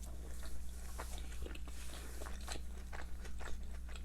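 A person chewing food close to the microphone, with small crunches and wet mouth clicks coming irregularly throughout.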